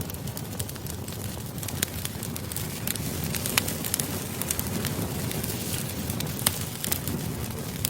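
Wood campfire crackling: a steady low rush of burning, dotted with frequent sharp pops and snaps.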